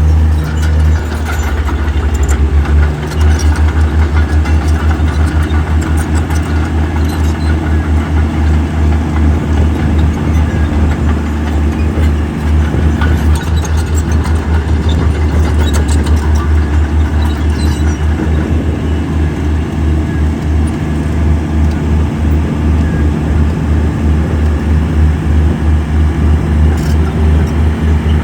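Heavy earthmoving machine's diesel engine running steadily, with a deep rumble that pulses rapidly throughout.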